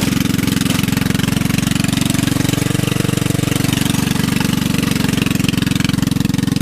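Lawnmower engine on a homemade go-kart idling steadily with an even, rapid pulse, its idle set a little high.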